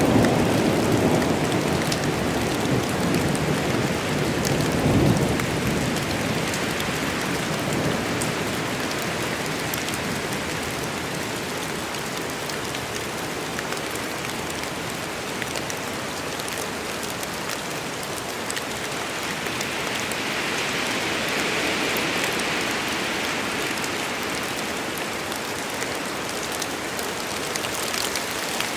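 Steady, heavy rain from a rain storm, with a low rumble of thunder that fades out over the first five seconds or so.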